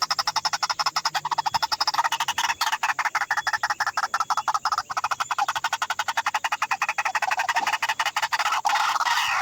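White-breasted waterhen calling: a fast, steady run of harsh repeated notes, about seven a second. Near the end the notes change to a series of falling calls.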